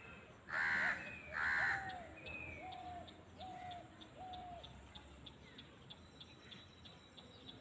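A crow cawing twice, loud and harsh, followed by four shorter, lower calls spaced about a second apart. Faint high ticks repeat in the background.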